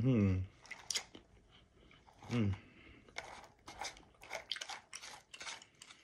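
A person chewing crunchy dry roasted mixed nuts, with a run of crisp crunches, about three or four a second, through the second half.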